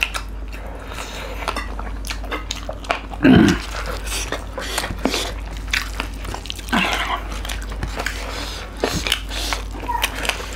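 Close-up eating sounds: chewing and wet mouth clicks as rice and chicken curry are eaten by hand, with many short smacks. A short hum of a voice about three and a half seconds in.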